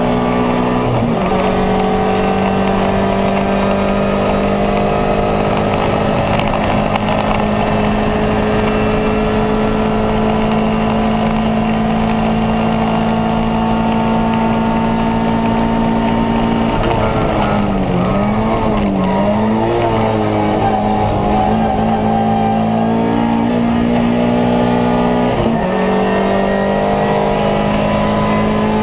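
Alfa Romeo 146's 2.0 Twin Spark four-cylinder engine under hard acceleration, heard from inside the stripped cabin with road and wind noise. The pitch drops at an upshift about a second in and again near the end. In between, the engine holds a steady high note for a long stretch, then dips and rises several times.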